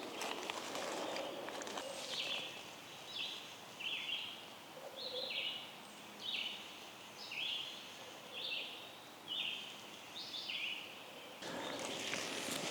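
Squirrel alarm calls: a short harsh call repeated about once a second, some ten times. Leaves rustle at the start and again near the end.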